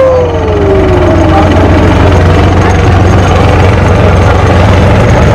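Tour boat's engine easing off, its pitch falling steadily through the first second and a half. It then runs on at a steady speed, with wind and water noise over it.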